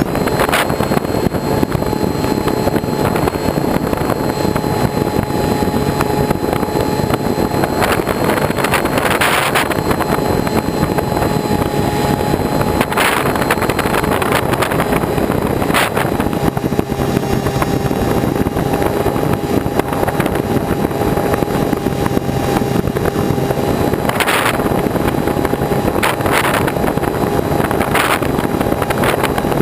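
Small model airplane's motor and propeller running steadily with a constant whine that shifts slightly in pitch now and then, over heavy wind rush on the microphone and occasional short knocks.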